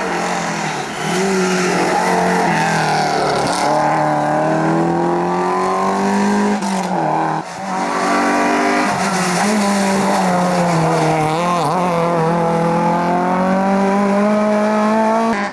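Rally car engine running hard at high revs, its note holding high with small rises and falls, with a brief dip about halfway through before it climbs again near the end.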